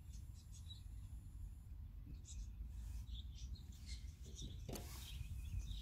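Faint background ambience: a steady low rumble with scattered short bird chirps.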